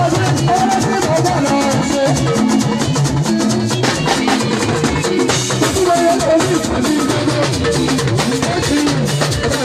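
Gospel band music with a drum kit and percussion keeping a steady, busy beat under a melody line.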